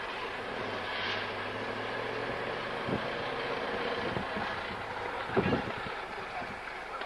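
Steady rushing noise of military jet aircraft, with a low hum through most of it and a couple of sharp knocks about five and a half seconds in.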